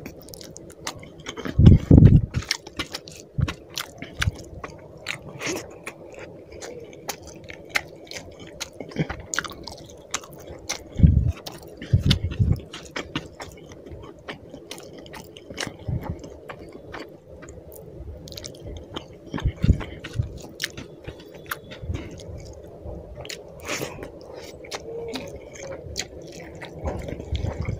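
Wet chewing and lip-smacking of a person eating rice and fish curry by hand, with squishing as fingers mix the rice. A few heavy low thumps stand out, the loudest about two seconds in and two more around eleven and twelve seconds.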